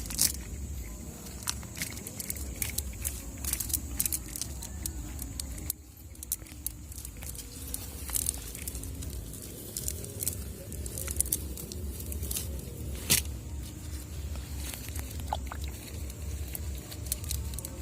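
Irregular clicks, rustles and light jingles from handling a wet cast net, over a steady low rumble.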